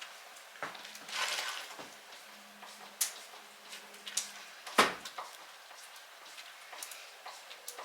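Scattered clicks and knocks from hand work on an entry door as its knob set and door lite go in, with a short scrape about a second in and a sharper knock near the five-second mark.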